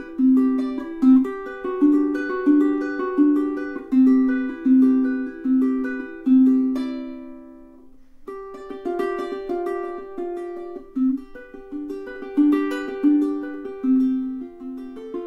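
aNueNue UT5K solid koa tenor ukulele being fingerpicked: a steady repeated low note under a moving melody of plucked, ringing notes. About halfway through the playing fades away for a moment, then starts again.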